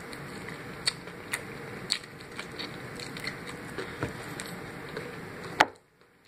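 Close-up eating of crusted fried chicken: chewing and lip and finger-licking smacks with sharp crunch clicks every half second to second, over a steady background hum. Near the end a loud click, then the hum cuts off suddenly.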